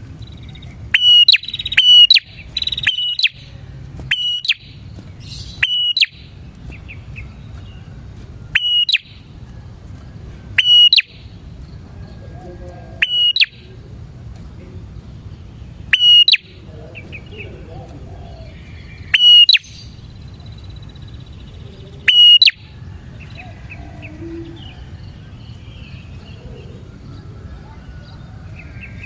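Prinia (prenjak) calling: loud, sharp chirps repeated at uneven gaps of one to three seconds, with faint softer notes between them over a low steady hiss.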